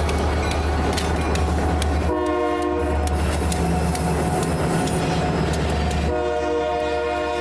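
Diesel freight locomotive passing close, its engine rumbling, sounding its air horn: a short blast about two seconds in and a longer blast starting near the end.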